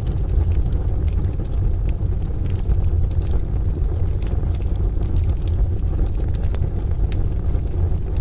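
Wood stove fire crackling, with scattered sharp pops over a steady, deep low rumble from the rain-and-thunder ambience.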